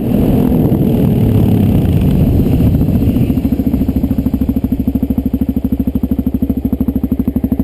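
Motorcycle engine running loud and rough for about three seconds, then settling into a steady, fast, even throb.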